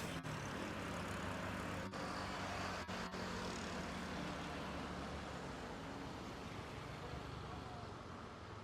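Jet airliner engines, a steady rushing noise with a low hum, slowly fading away.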